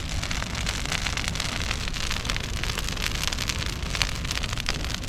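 Burning brush pile crackling and popping: a dense run of quick sharp snaps over a steady low rumble.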